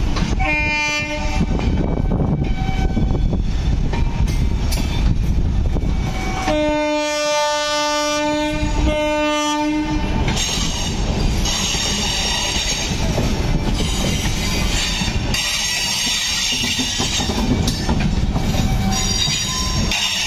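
Train coaches rolling past close by with a steady rumble of wheels on rails. A train horn sounds briefly about a second in, then a longer blast of about three seconds with a short break, around the middle. In the second half the wheels give a high screeching against the rails.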